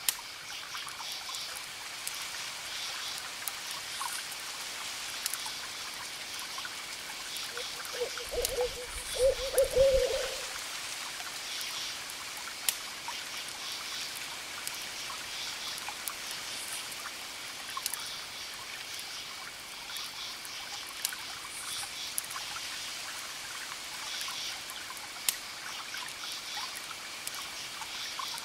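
An owl hoots a short run of low notes about eight seconds in, over a steady hiss with high chirping. Sharp crackles from a wood fire pop every few seconds.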